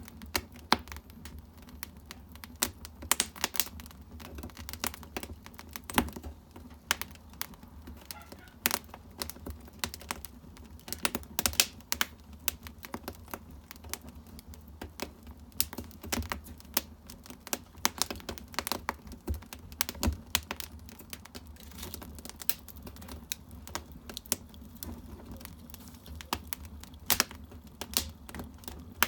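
Firewood burning in a traditional Korean agungi furnace, crackling with frequent irregular sharp pops and snaps over a steady low background.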